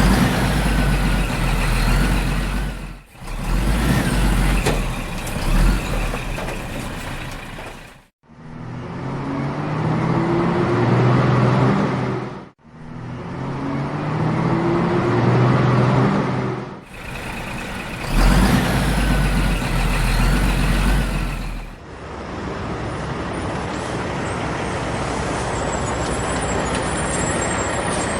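A series of short truck and vehicle engine sounds spliced one after another with abrupt cuts. Twice in the middle an engine rises steadily in pitch as it revs up.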